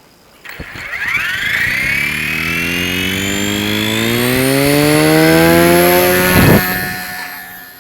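A motor revving up, its pitch climbing steadily for about six seconds. A short loud burst comes near the end, and then the sound fades out.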